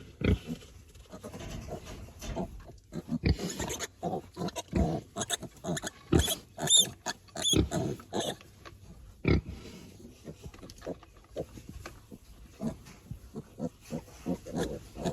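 Pigs grunting and calling irregularly, with a run of high piglet squeals about halfway through. A piglet is squealing as it is held and handled. A few sharp knocks come through as well.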